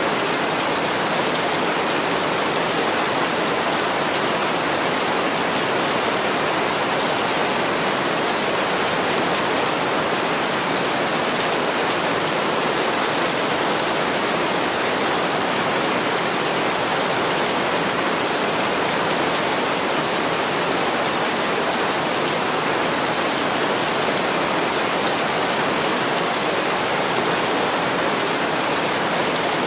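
Heavy rain pouring steadily onto a window: an even, unbroken hiss with no pauses or distinct drops standing out.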